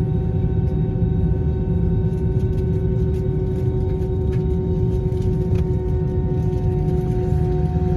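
Airbus A321 cabin noise while taxiing: the jet engines run at idle with a steady hum of several held tones over a low rumble, with a few faint clicks.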